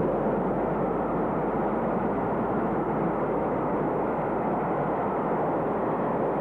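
Steady rumble of a train running past at speed, even and unbroken, with no separate exhaust beats standing out.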